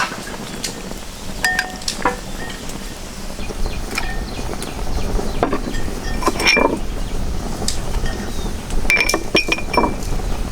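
Scattered clinks and knocks of hard objects, irregularly spaced, a few of them ringing briefly, over a steady low background hum.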